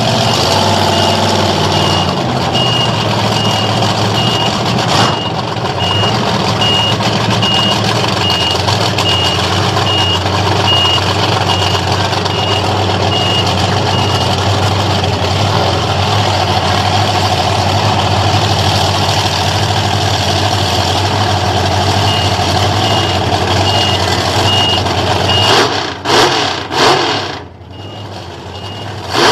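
A heavy vehicle's engine running steadily while its reversing alarm beeps at an even pace, about one and a half beeps a second, pausing for a while midway. Near the end, a few sudden loud surges break in.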